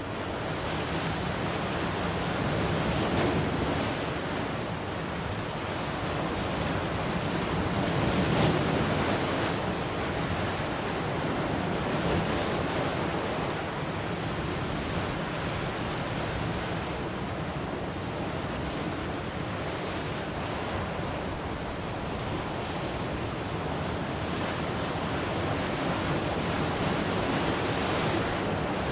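Ocean waves breaking and washing in a continuous surf, swelling gently every several seconds, with some wind on the microphone.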